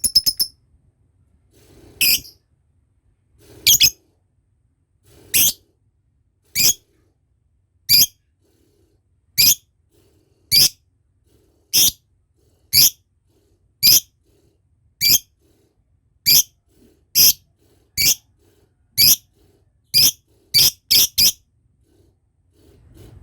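Lovebird giving short, sharp, high-pitched calls, one about every second, coming closer together near the end.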